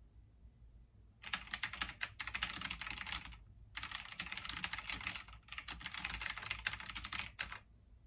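Fast typing on a computer keyboard: three runs of rapid keystrokes with brief pauses between, starting about a second in.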